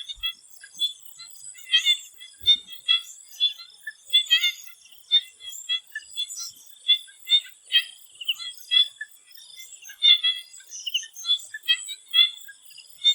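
Swamp frogs calling in a dense chorus of short, quick notes, several a second, over a steady high-pitched drone.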